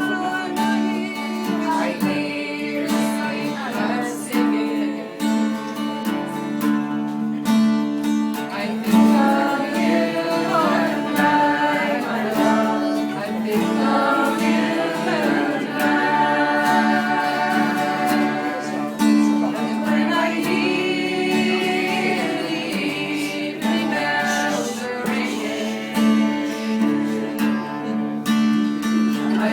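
Acoustic guitar strummed while voices sing a song together.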